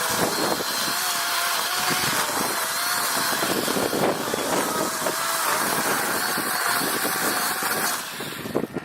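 DeWalt 20 V cordless electric chainsaw running and cutting wood, its motor whine wavering with the load; it stops near the end.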